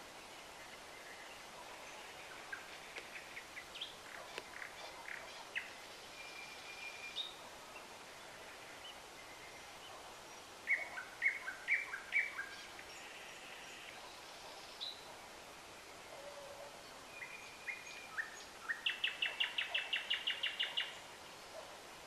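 Several songbirds singing and calling over a steady background hiss: scattered high chirps and whistles, a burst of louder chirps about halfway through, and a fast trill of about eight notes a second near the end.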